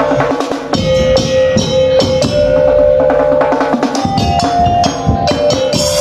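Madurese ul-daul (tong-tong) ensemble playing: dense strikes on drums and wooden percussion over a held melody line that steps up in pitch about four seconds in.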